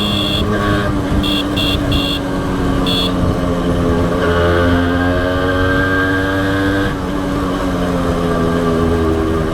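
Honda H100S motorcycle engine running under way, its pitch easing down and then holding steady, with a brief dip about seven seconds in. A series of short high-pitched beeps sounds over the engine during the first three seconds.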